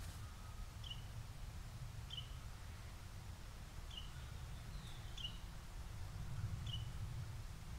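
A bird giving short, slightly falling chirps, five of them at intervals of one to two seconds, over a steady low outdoor rumble.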